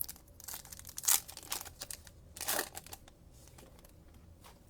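Trading cards being handled and slid through the hands: a few short rustles and scrapes, the strongest about a second in, then it goes quiet after about three seconds.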